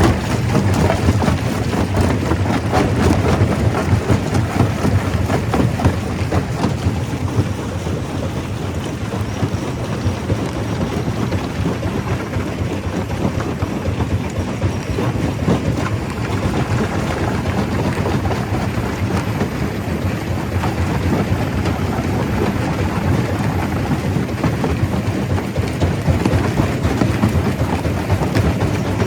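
Stone crusher running under load: a continuous heavy rumble with a dense clatter of rocks being broken and tumbling through it.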